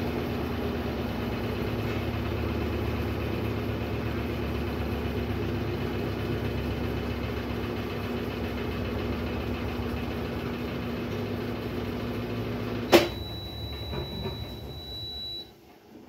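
Brastemp Sexto Sentido 8 kg washing machine running with a steady mechanical hum that stops with a sharp click about thirteen seconds in. A thin, high steady tone follows for about two and a half seconds, then cuts off.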